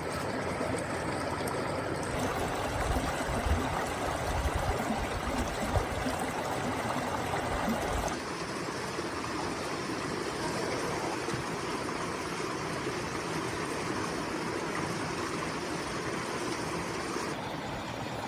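Steady heavy rain and wind noise, with low rumbling gusts in the first half; the sound changes abruptly about eight seconds in.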